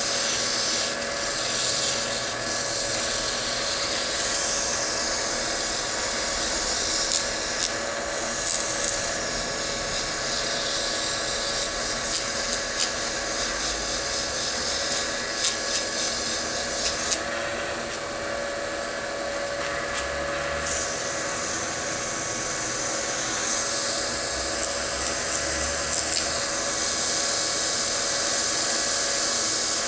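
Wood lathe running steadily with a constant motor whine, while something held against the spinning wooden bowl rubs on it with a hiss. The hiss eases off for a few seconds past the middle.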